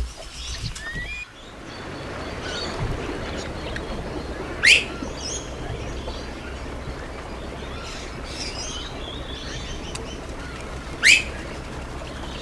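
Wild birds chirping and calling, with two loud, sharp upward-sweeping calls about five and eleven seconds in, over a steady background hiss.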